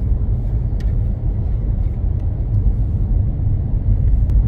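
Steady low rumble of a moving vehicle, engine and road noise, heard while driving along a road.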